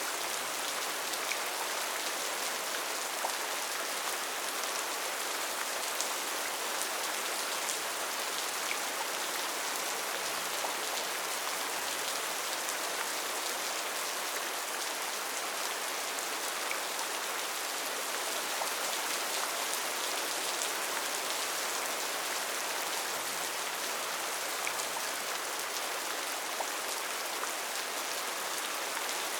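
Steady rain falling, a dense even hiss with scattered small drop ticks, described as rainforest rain.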